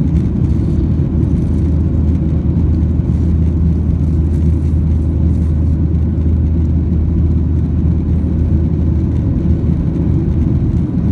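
Steady low roar inside the cabin of a Boeing 737-800 in flight, from its CFM56-7B jet engines and the airflow, with a faint steady hum above it.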